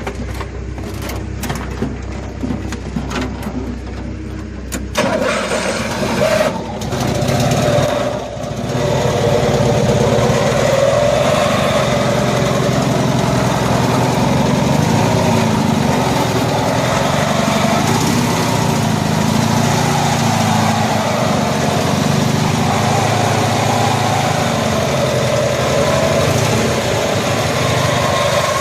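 The 1974 Cushman Truckster's small engine starting about five seconds in, over a lower engine hum, then running steadily at idle.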